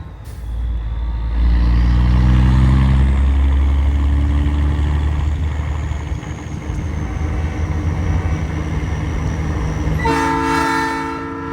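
Big-rig diesel engine pulling hard with a deep rumble, its pitch rising for a couple of seconds, then about ten seconds in a Nathan Airchime P3 train-style air horn blows a steady multi-note chord.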